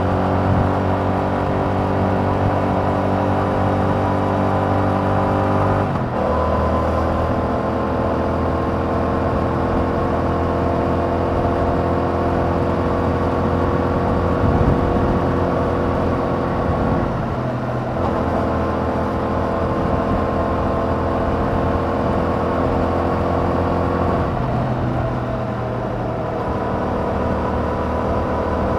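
2021 Yamaha MT-07's 689 cc parallel-twin engine through its stock exhaust, heard from the bike while riding at a steady pace. The engine note changes pitch abruptly three times: about six seconds in, just past the middle, and near the end, with steady running in between.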